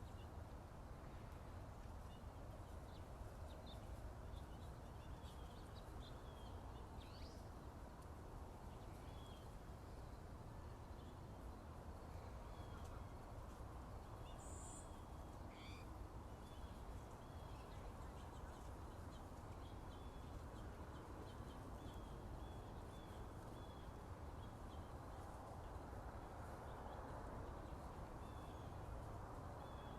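Wild birds calling and singing faintly, a scatter of short high chirps throughout with a few longer sweeping notes, over a steady low background hiss.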